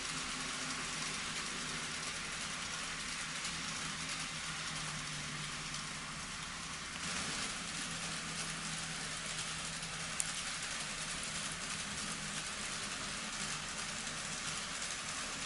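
N scale model trains running on the track: a steady rolling hiss of small wheels on rail, with a faint hum from a model locomotive's motor and a single sharp click about ten seconds in.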